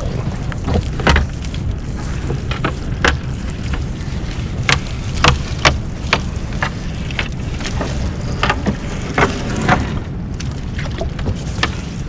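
A boat's engine running steadily with a low rumble, overlaid by irregular sharp clicks and knocks, about one a second, from a crab gillnet being hauled and handled aboard.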